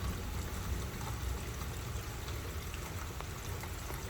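Steady rain with water pouring and trickling, a few faint drop ticks standing out.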